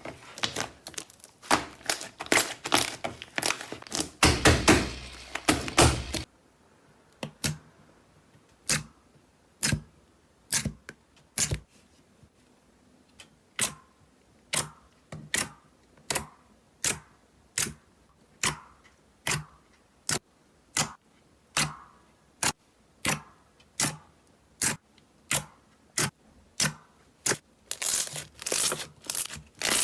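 Slime being handled, making sharp clicking pops. A dense run of crackling pops lasts about six seconds, then single pops come about one a second, and the crackling turns dense again near the end.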